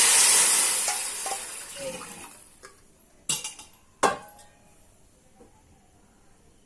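Hot ghee and fried onions sizzling loudly as water is poured into the pan, the sizzle dying away over the first two seconds or so. Then two sharp metal clinks against the pan, about three and four seconds in.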